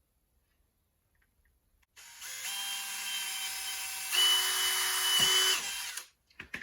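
Electric drill with a 4 mm bit drilling through a stack of 3D-printed plastic spacers. It starts about two seconds in, runs louder and steadier over the last second and a half, and stops about six seconds in, followed by a few clicks.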